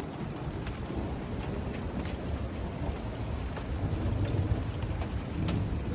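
Thunderstorm: steady rain falling with a low rolling rumble of thunder underneath, and scattered sharp drip ticks.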